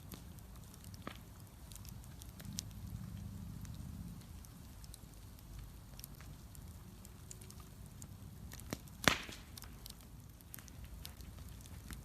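Wood bonfire crackling with scattered sharp pops and snaps over a low, steady rumble, with one loud snap about nine seconds in.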